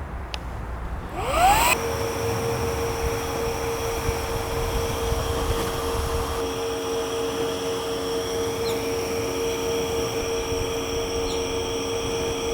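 Electric air pump for an air tent switching on: its whine rises quickly about a second and a half in, then it runs at a steady pitch, inflating the tent. Wind rumbles on the microphone before it starts.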